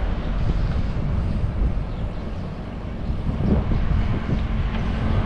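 Rumbling road noise and wind buffeting on an action camera's microphone while riding a bicycle along a busy highway, with motor traffic running alongside. A steady engine hum from a nearby vehicle comes in about four seconds in.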